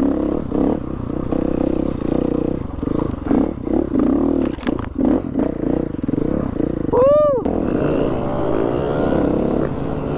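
Dirt bike engine running under changing throttle on a motocross track, with knocks and clatter as the bike goes over rough ground. A little after seven seconds the engine gives one short rev that rises and falls.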